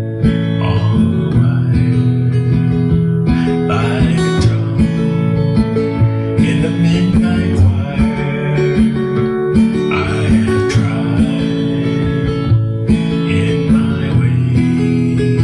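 Music: acoustic guitar strummed and picked in a slow, steady song accompaniment, with no clear singing.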